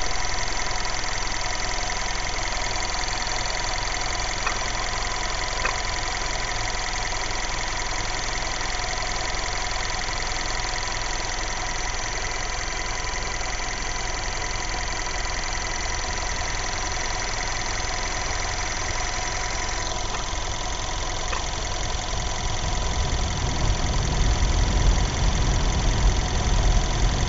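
Skoda Yeti engine idling steadily, with a brief abnormal noise from the timing chain about five seconds in and again about twenty-one seconds in; the noise recurs regularly every 16 seconds. Near the end a low rumble grows louder.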